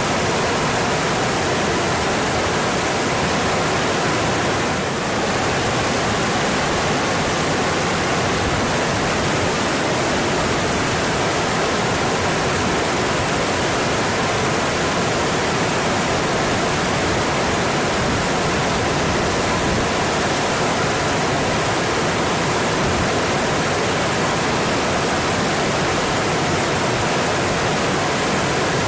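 Mountain stream running steadily, a constant full rush of water, with a brief slight dip in level about five seconds in.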